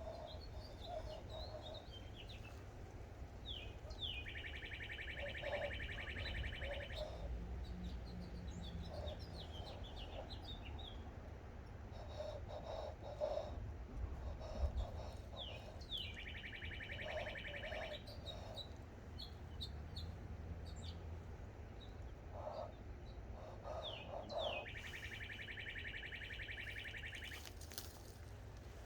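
A songbird sings the same song three times, about ten seconds apart: a few quick descending chirps, then a fast buzzy trill lasting a couple of seconds. Scattered shorter chirps fill the gaps.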